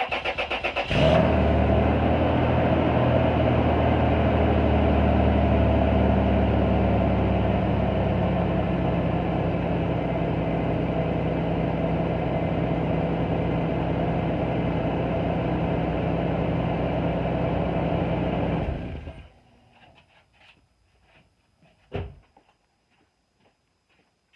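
2000 Toyota 4Runner engine cranked by the starter for about a second, then catching and running steadily, a little louder for the first several seconds, until it is switched off after about 18 seconds; its stock muffler is leaking exhaust through a split weld seam. A single sharp knock near the end.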